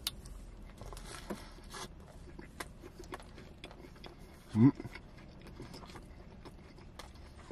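Close-up mouth sounds of someone biting into and chewing a beef shawarma wrap stuffed with lettuce, pickles, onions and tomato: soft bite noise at first, then many small wet, crunchy chewing clicks. A short hummed 'mm' from the eater comes about four and a half seconds in.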